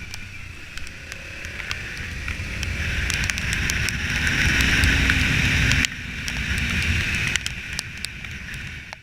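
Wind rushing over the microphone with road and engine rumble while riding a motorcycle. The noise builds up to about six seconds in, drops suddenly, then eases off.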